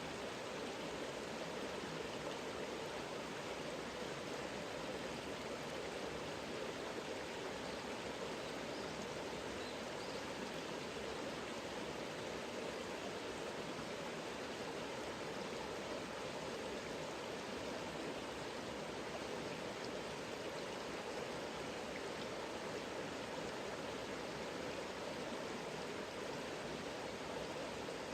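Mountain river running: a steady, even rush of flowing water.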